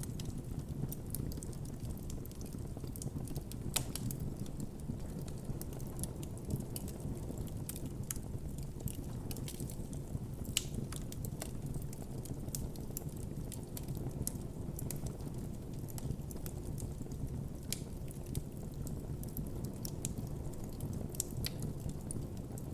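Wood campfire burning: a steady low rush of flame with irregular sharp crackles and pops from the burning wood, a few louder pops standing out.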